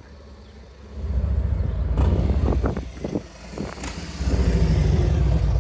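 Car engine and exhaust rumbling deeply as a car drives past close by, easing off in the middle and getting back on the throttle near the end.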